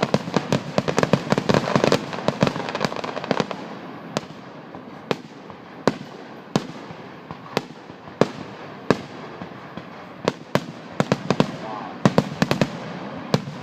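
Fireworks going off: a dense run of crackling bangs for the first few seconds, then single sharp bangs a second or so apart, crowding together again near the end.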